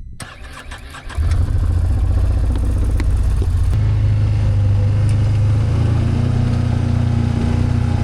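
A vehicle engine running steadily. It comes in suddenly about a second in and holds a steady low hum.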